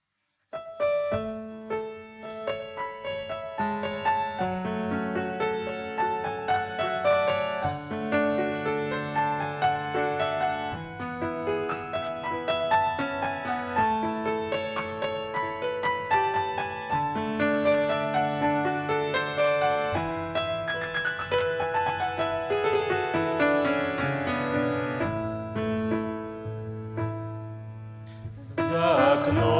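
Piano playing a gentle introduction of melody over chords, starting about half a second in; near the end a voice begins singing the first words of the song over it.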